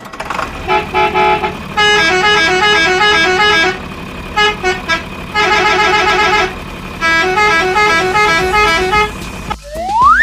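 A multi-tone musical vehicle horn plays a short tune in repeated phrases of stepping notes over a low steady hum. Near the end a rising glide sweeps up in pitch.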